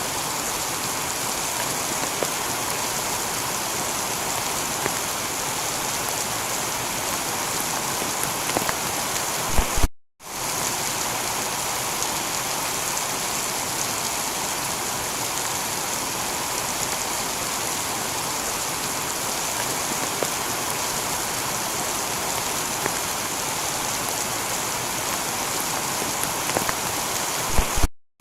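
Heavy rain falling steadily on a tiled roof, an even hiss of drops. It cuts out for a split second about ten seconds in and again near the end.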